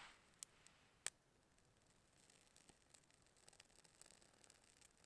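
Near silence with faint scattered ticks and one sharp click about a second in: small crackles from birch bark shavings just catching flame from ferro rod sparks.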